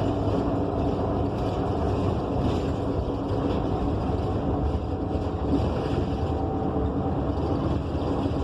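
Inside a 2015 Gillig BRT Plus transit bus on the move: its Cummins Westport ISL G natural-gas engine and Allison transmission give a steady hum over low road rumble.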